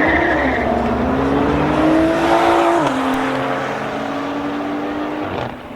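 Sports car engine accelerating hard in a drag race, its pitch climbing, dropping sharply at an upshift about three seconds in, then climbing again.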